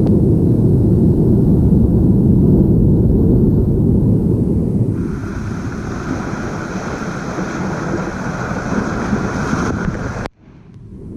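Ocean surf with wind buffeting the microphone: a heavy low rumble for about five seconds, then the hiss of breaking and washing waves. Near the end the sound cuts out abruptly and fades back in.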